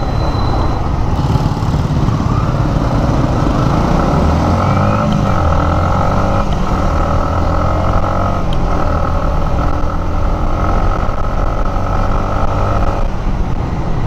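Yamaha MT-15's 155 cc single-cylinder engine running under way in city traffic. The engine note rises and falls a little with the throttle.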